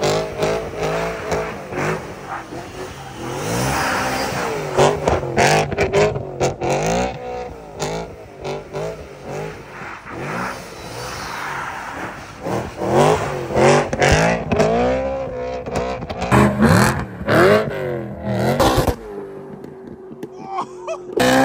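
BMW E9x M3's V8 engine revved hard while the car drifts on snow, its pitch sweeping up and falling back again and again. Near the end it settles to a steadier, quieter drone.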